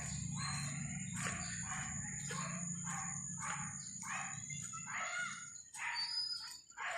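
A bird calling over and over, short chirps about two a second, over a steady high-pitched whine. A low hum underneath fades out about two thirds of the way through.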